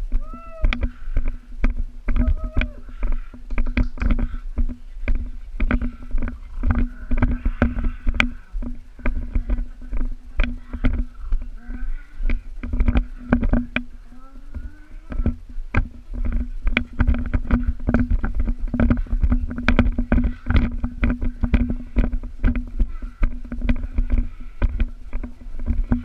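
Small toy helicopter's motor and rotor running steadily, with frequent sharp clicks and knocks and a low rumble throughout.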